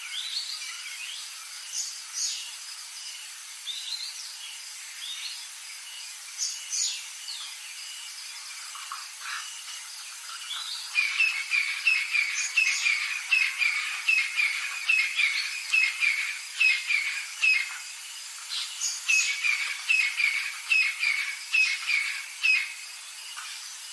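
Birds calling: scattered sharp chirps at first, then about halfway through a long rapid run of squawking calls, several a second, over a faint steady hiss.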